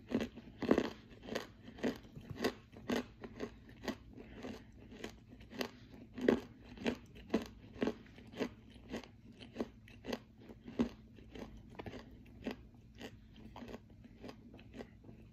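A person chewing crunchy edible clay close to the microphone: a steady run of mouth crunches about two a second, growing softer through the second half.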